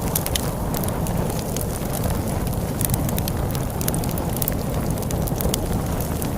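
Wood fire crackling, with frequent irregular sharp pops, over a steady low rumble of storm wind.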